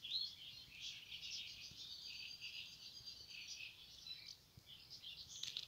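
Faint outdoor birdsong: many short chirping notes, with a thin, steady high trill running through the middle.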